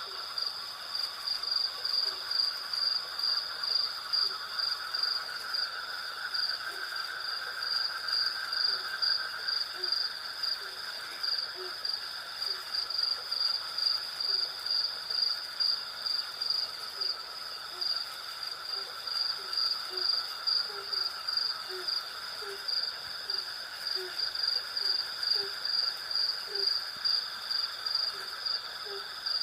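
Night insect chorus: crickets chirping in a high, even pulse a few times a second over a steady lower insect trill. From about six seconds in, short low calls repeat every second or so beneath it.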